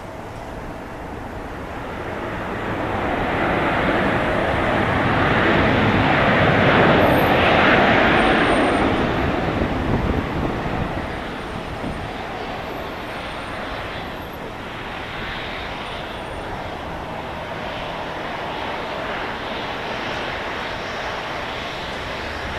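Boeing 737-700 jet engines running on a landing pass, growing louder to a peak about seven seconds in as the airliner goes by, then dropping to a steadier, lower engine noise.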